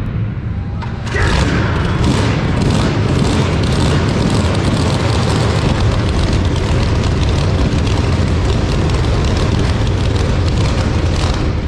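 Small mini bike engine running loud and close, its level jumping up suddenly about a second in and then holding steady.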